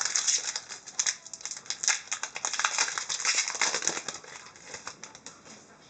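Foil trading-card pack wrapper being torn open and crumpled by hand: a dense crinkling with many small crackles, fading out in the last second or two.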